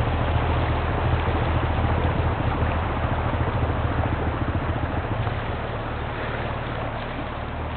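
A 4x4's engine running steadily at an even low pitch, under a constant rushing noise of water and wind; the whole sound eases off slightly toward the end.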